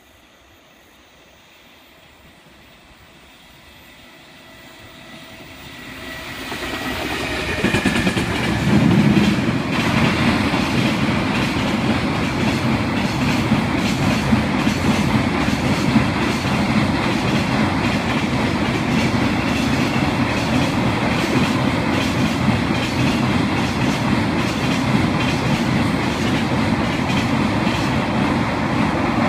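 Container freight train crossing a steel truss railway bridge. It is faint at first and swells over the first several seconds as it approaches. It then becomes a loud, steady rumble with a rhythmic clatter of wagon wheels over the steel span.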